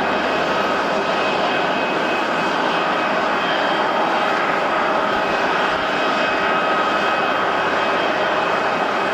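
Jet airliner engines running steadily: an even rushing noise with a few thin, steady high-pitched whine tones over it.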